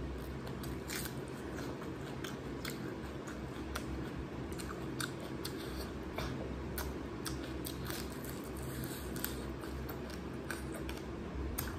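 A person chewing and biting rice and fried fish, with irregular crunches and scattered sharp clicks over a steady low hum.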